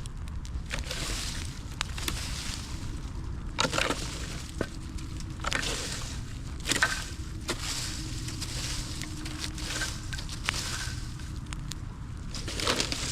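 Campfire burning, the wood crackling steadily with scattered sharp pops, several of them louder, over a steady hiss and low rumble.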